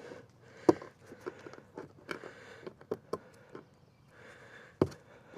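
Scattered clicks and small handling noises of pliers gripping and working the seal off a plastic gallon jug of motor oil, with a sharp click shortly after the start and another near the end.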